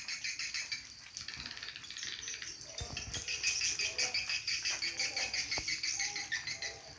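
Swiftlets twittering: a dense, continuous run of rapid high chirps and clicks, growing a little louder about three seconds in.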